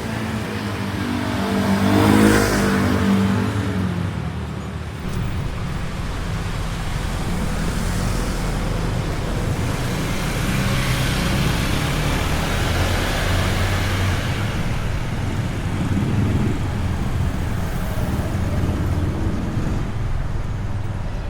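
Street traffic: a motor vehicle passes close by about two seconds in, its engine pitch falling as it goes, with another vehicle passing later and engines running steadily underneath.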